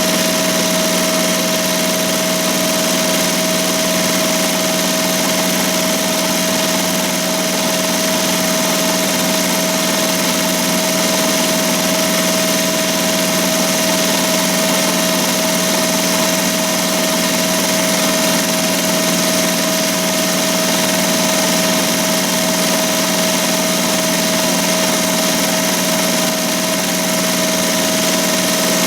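ZSK Sprint 10-needle commercial embroidery machine running steadily, stitching at about 1,200 stitches per minute with an even, unchanging hum.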